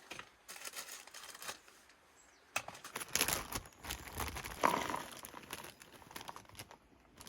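Crinkly plastic food packaging rustling as it is handled, in a short bout and then a longer, louder one from about two and a half seconds in.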